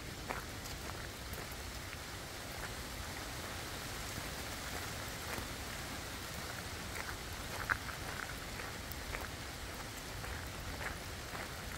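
Steady rain falling through forest, an even hiss with scattered single drops tapping close by. One sharper drop hits about two-thirds of the way through.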